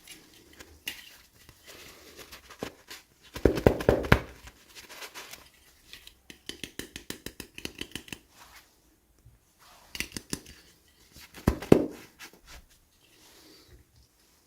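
Hands opening and handling toy packaging: bursts of clicks and crinkling plastic, with two louder clusters and a run of quick, even clicks in the middle.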